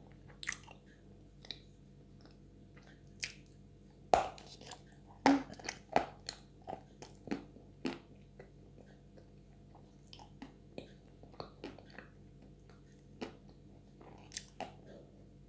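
Close-miked biting and chewing of a soft chunk of edible Chuy clay coated in Chuy clay paste: scattered short clicks and smacks with no crunch, the loudest bites about four and five seconds in.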